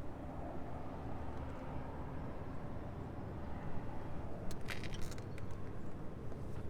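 Steady low background rumble, with a brief cluster of light clicks about four and a half seconds in.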